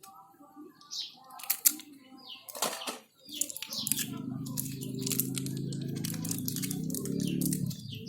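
Small birds chirping over and over in short falling notes, with light clicks of small metal engine parts being handled. About halfway in a steady low hum starts.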